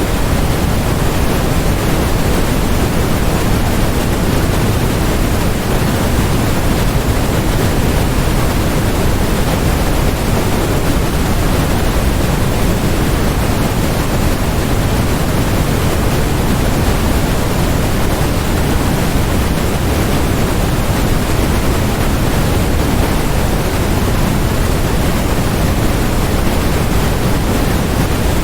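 Steady, unchanging synthetic noise with most of its weight in the low end: an even, deep hiss like pink noise, with no events in it.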